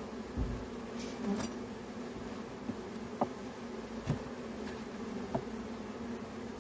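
Honeybees humming steadily around an open hive, with a few light knocks and clicks scattered through.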